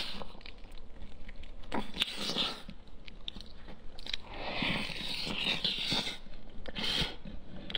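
Close-miked chewing of braised meat and a steamed bun, with irregular mouth clicks and a few longer noisy stretches.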